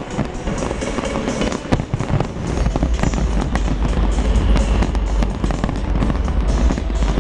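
Fireworks going off: many sharp bangs and crackles over loud music, whose low end grows much heavier about two and a half seconds in.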